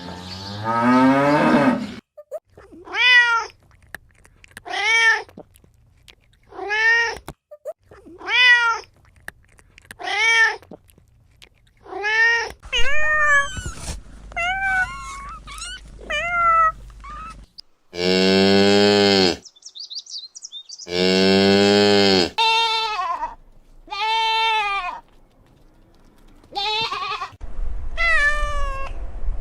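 Cat meowing repeatedly, short rising-and-falling calls about every two seconds. Two longer, lower calls about two-thirds of the way through sound like a cow mooing.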